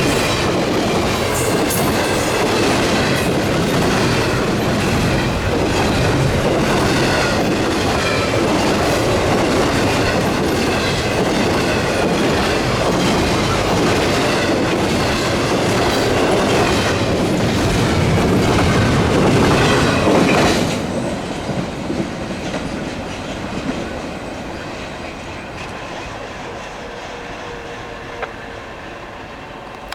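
Freight train cars rolling past: a loud steady rumble of wheels clacking over the rail joints, with some wheel squeal. About two-thirds of the way in the noise drops off sharply and then fades away.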